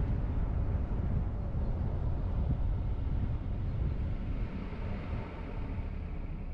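A car driving, with a steady low rumble of engine and tyre noise that eases a little in the second half.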